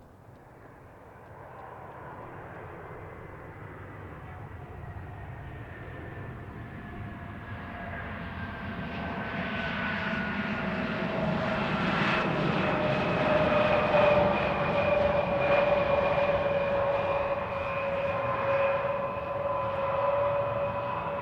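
Embraer ERJ-170 twin-turbofan jet (GE CF34 engines) on landing approach, growing steadily louder for about fourteen seconds and then easing slightly as it passes. Its engine whine tones slide slowly down in pitch over a jet rush.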